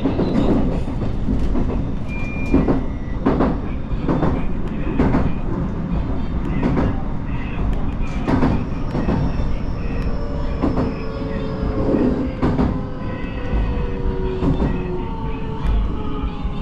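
Sanyo Shinkansen Sakura train running with a steady rumble and irregular knocks. From about halfway in, a whine of several tones falls slowly in pitch, as of the train slowing.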